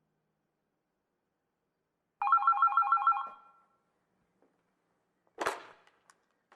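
A telephone ringing: one ring of about a second, a fast warbling trill, loud against complete silence. Then a single short, sharp noisy burst about five and a half seconds in.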